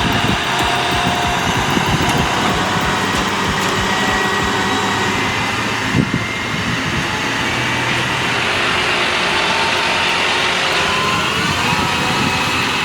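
Heavy road vehicle engine running steadily, with thin whining tones drifting slowly upward in pitch through the noise.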